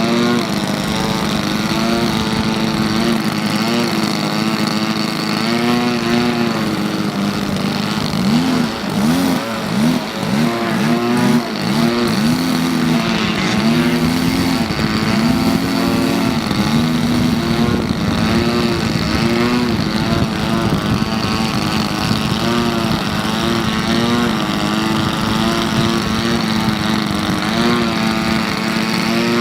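Small propeller airplane's engine running continuously, its pitch swinging up and down several times in quick succession between about 8 and 17 seconds in, then settling to a steady drone.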